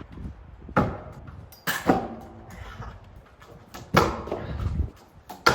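Stunt scooter slamming and clattering down on concrete, with four loud impacts spread over several seconds and wheels rolling between them: repeated trick attempts that are not landed.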